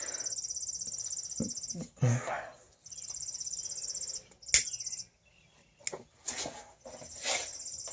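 A high, rapidly pulsing insect trill, in three stretches with gaps between them. A short thump about two seconds in, the loudest sound, and a sharp click past halfway.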